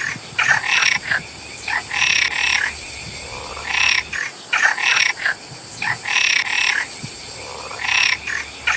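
Frogs croaking: short, loud calls a third to half a second long, repeated irregularly and sometimes in quick pairs, over a faint steady high hiss.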